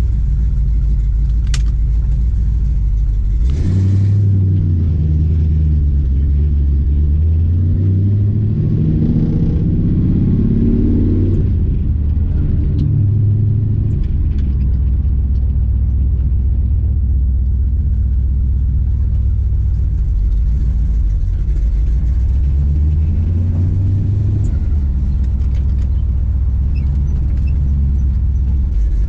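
1970 Dodge Challenger's 408 cubic inch stroker V8 running on the road with a low engine note. A few seconds in, the revs climb steadily for about seven seconds, then fall back at a gear change. A shorter rise in revs follows near the end.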